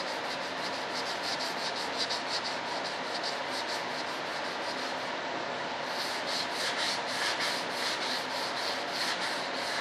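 Sandpaper rubbed back and forth by hand over a model jet part in quick, even strokes, with a brief pause about halfway through.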